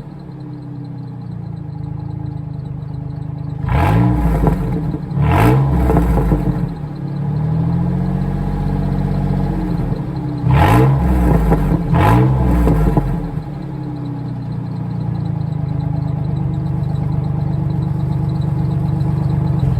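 2001 Ford F-150's 4.2-litre V6 running through a straight pipe with its muffler cut off: idling, blipped in four short revs that come in two pairs several seconds apart, then settling back to idle.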